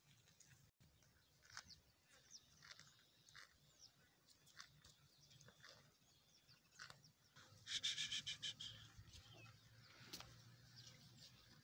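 Faint outdoor quiet with scattered short high chirps from small birds, and a quick rattling chatter of about ten notes about eight seconds in, the loudest sound.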